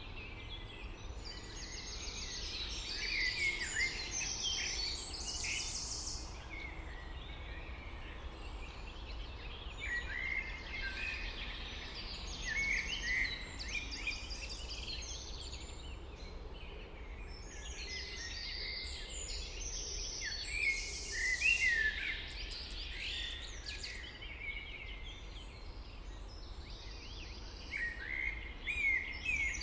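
Songbirds singing near a small lake, several birds in short repeated phrases that come in bunches every few seconds. A steady low rumble runs underneath.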